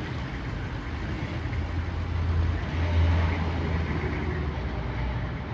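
A large road vehicle's engine running amid traffic noise, its low rumble swelling about two to three and a half seconds in.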